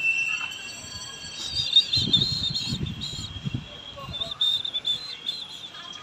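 Small birds chirping and twittering in a high, wavering series over outdoor background noise, with a low murmur of voices about two seconds in.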